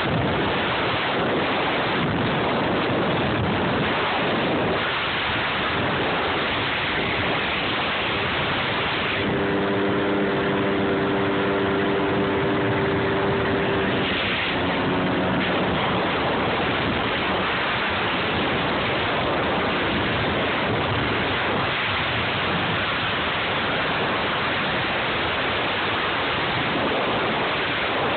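Steady rush of wind and water on a phone microphone riding a jet ski, with the steady tone of an engine showing through for a few seconds about a third of the way in.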